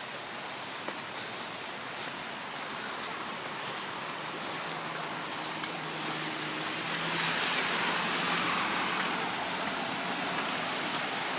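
Heavy rain pouring down, a steady hiss that swells louder about seven seconds in, with a faint low hum in the middle.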